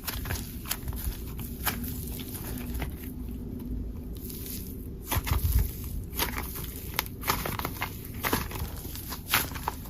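Slime being played with by hand: irregular small clicks and pops as it is squished and pressed, with a duller, heavier squish about five seconds in.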